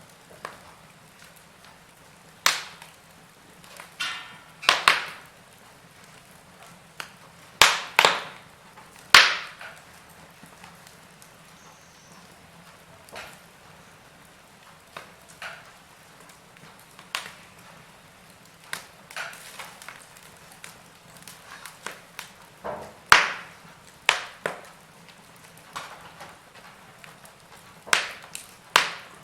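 Burning logs in a fireplace crackling, with irregular sharp pops, some loud and a few in quick pairs, over a faint steady hiss.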